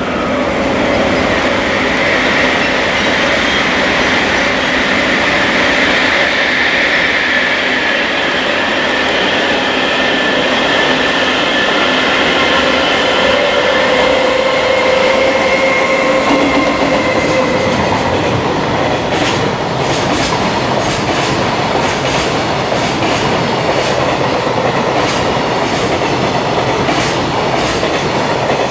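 JR Freight EF210 electric locomotive hauling a fully loaded container freight train past, with steady high-pitched tones over the running noise as it approaches. From about two-thirds of the way in, the container wagons' wheels clatter over the rail joints in a rapid, regular clickety-clack.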